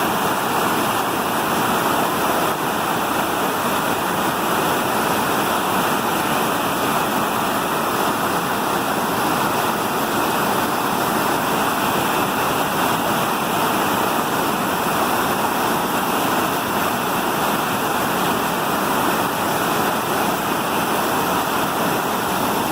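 Fast-flowing creek water rushing steadily, an even, unbroken noise.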